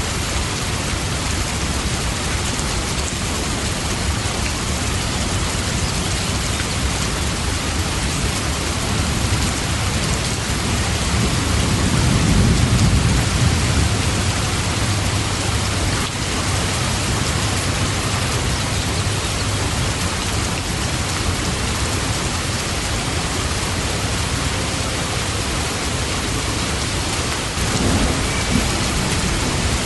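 Steady heavy rain falling, with a low rumble of thunder swelling about twelve seconds in and a shorter one near the end.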